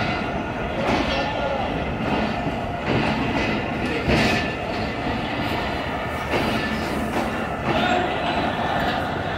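Passenger coaches of a train rake rolling slowly along a platform: a steady rumble of wheels on rail with occasional clunks over rail joints.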